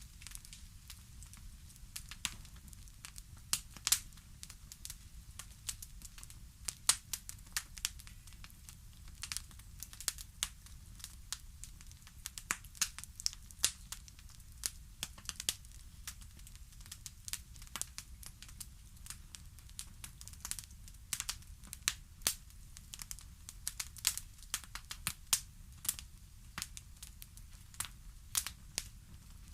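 Wood fire crackling: irregular sharp pops and snaps, several a second, over a soft low rumble.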